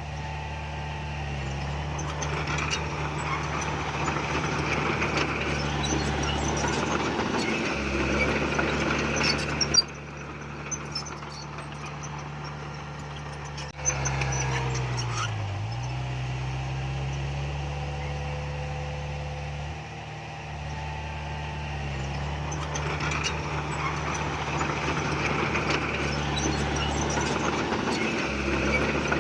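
Bulldozer's diesel engine working, its load rising and falling in long swells, with clanking and squeaking over the top. About halfway through, after a sharp knock, the engine note drops low and then climbs back.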